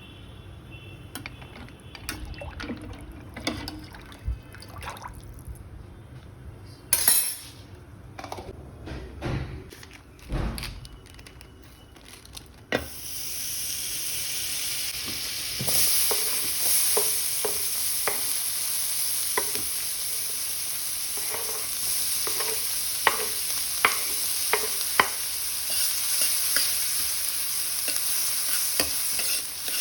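Utensils clinking and knocking, then about halfway through a sudden, steady sizzle as food goes into hot oil in a pan. A spoon taps and scrapes against the pan as the food is stirred while it fries.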